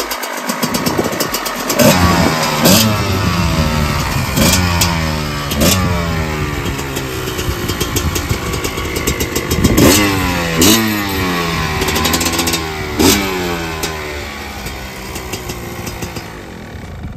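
Gas Gas EC 250 two-stroke supermoto engine running on the stand, blipped about seven times: each blip spikes the revs and the pitch slides back down to a fast idle, through an FMF silencer.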